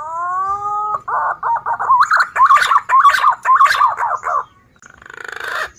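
Recorded green pigeon (punai) calls played as a lure: a rising whistle, then a fast run of warbling notes, then two hoarse, rattling phrases.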